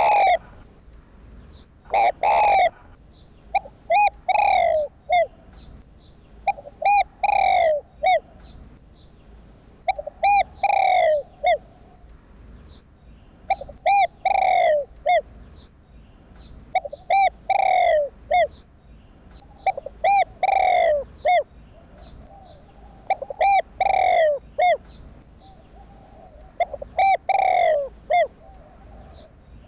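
Spotted dove cooing: short phrases of a few low coos each, repeating about every three seconds.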